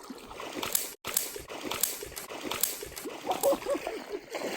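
Creek water splashing and sloshing, with several sharp splashes over a steady trickle of the stream.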